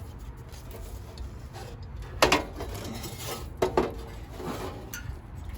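Metal parts and tools being handled on a shop bench: sharp metallic clanks about two seconds in and again near four seconds, with a small clink near the end, over a low steady hum.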